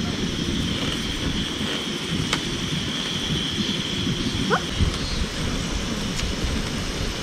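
Outdoor ambience: low rumbling wind noise on the microphone under a steady high drone that fades out about two-thirds of the way through, with a brief rising chirp about four and a half seconds in.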